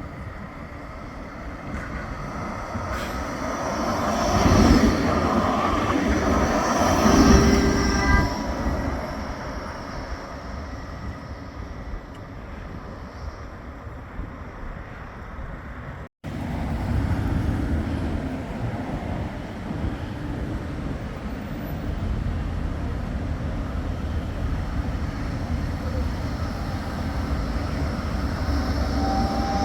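Bombardier Flexity 2 light-rail tram running on the tramway, growing louder as it passes about four to eight seconds in, with a few brief ringing tones at its loudest. About halfway through the sound cuts off abruptly and switches to steady tram running noise that slowly builds.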